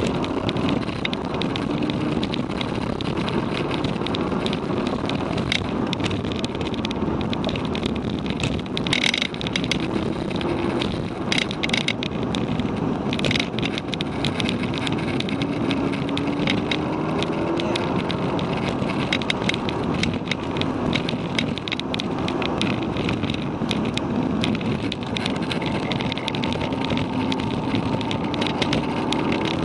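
Volkswagen Golf GTI Mk6's APR Stage 1–tuned turbocharged 2.0-litre four-cylinder heard from inside the cabin at track pace, its pitch climbing and dropping again and again through the corners. It runs over loud road and wind noise, with scattered sharp clicks.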